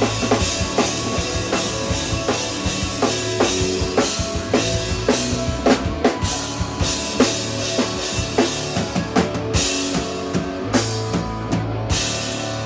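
Three-piece instrumental rock band playing live, with a drum kit striking steady kick and snare hits over sustained low bass notes and pitched guitar lines. The drumming thins out about ten seconds in while a held low note carries on.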